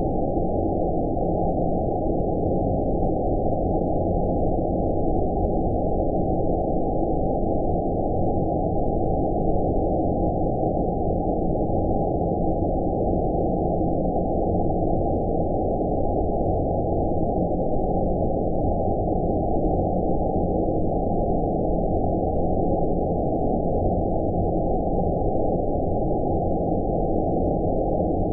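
Steady low rumbling noise, cut off sharply above about 1 kHz so it sounds deep and muffled, unchanging throughout: a synthetic 'outer space' ambient noise track for sleep.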